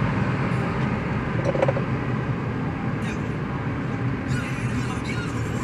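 Steady road and engine noise of a car driving on a highway.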